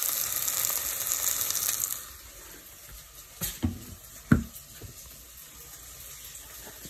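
Sliced onions and tomato sizzling as they fry in a pan; the sizzle cuts off abruptly about two seconds in. A few sharp knocks follow, the loudest a little over four seconds in.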